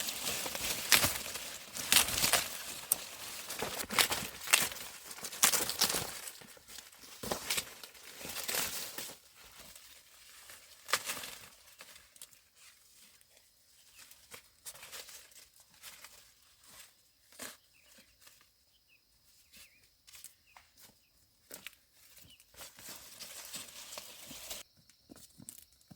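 Dry corn plants rustling and crackling as ears of corn are snapped off by hand, with many sharp snaps close together at first, thinning out and getting quieter about halfway through.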